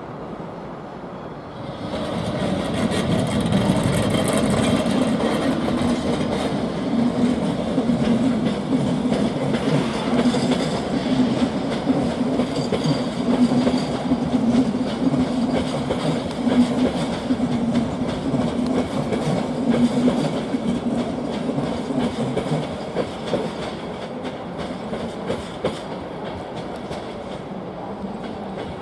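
A train rolling past on the station tracks, its wheels clattering over rail joints with a steady low hum underneath. It swells up about two seconds in and eases off near the end.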